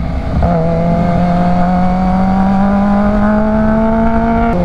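Kawasaki Ninja H2's supercharged inline-four engine pulling steadily under throttle, its pitch climbing slowly, then dropping suddenly near the end.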